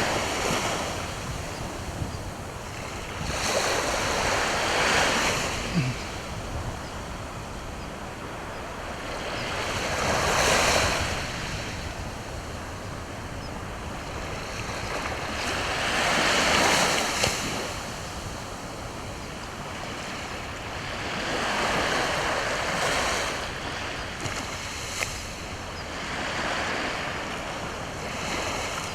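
Sea waves breaking and washing onto the shore, the surf swelling about every five to six seconds with a steady hiss of water between.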